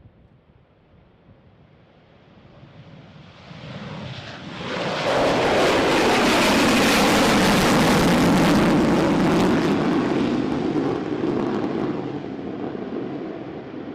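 Jet noise from a B-1 bomber's four turbofan engines as the aircraft passes by. It swells over about five seconds and stays loud for several seconds with a falling pitch, then fades.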